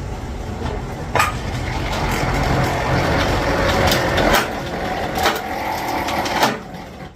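Several sharp metal clanks over a steady low rumble of heavy machinery, from work on a bulldozer track chain.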